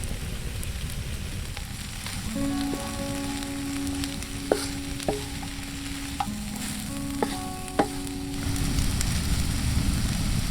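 Sausages, onions and peppers sizzling in a Muurikka frying pan, with a few sharp clicks of a utensil stirring against the pan about halfway through.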